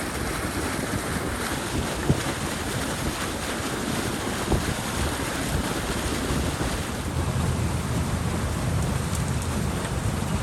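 Water rushing steadily through a breach in a beaver dam, with wind buffeting the microphone. There are two brief knocks, about two and four and a half seconds in.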